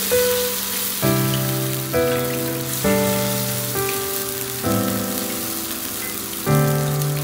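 Hot oil in a wok sizzling with a steady crackling hiss that starts suddenly as sliced ingredients are dropped in, over background piano music whose chords change about once a second.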